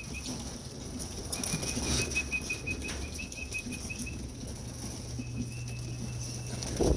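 Homing pigeons' wings flapping as the flock flies around the loft, with a faint rapid high ticking through most of it and a louder burst right at the end.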